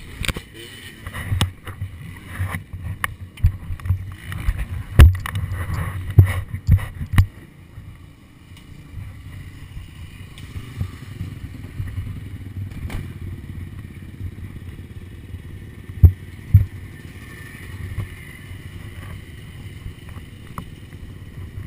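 Muffled low rumble of a KTM SX250F dirt bike, with a run of knocks and clatter in the first seven seconds and two sharp thumps about sixteen seconds in.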